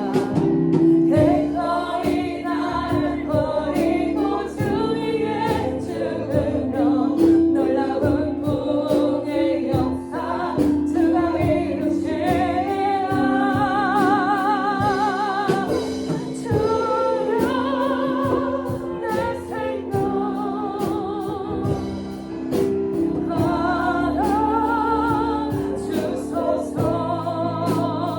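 A worship song: voices singing a melody over instrumental backing with a steady beat.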